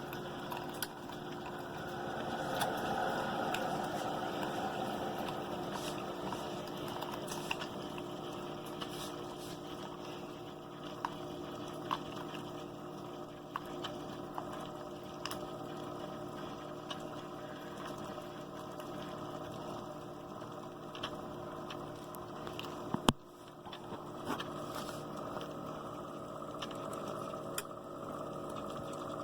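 CHULUX single-serve pod coffee maker running with a steady hum, scattered small ticks and pops, and one sharp click about 23 seconds in. The machine is faulty: it makes this noise but puts out only drops instead of a cup.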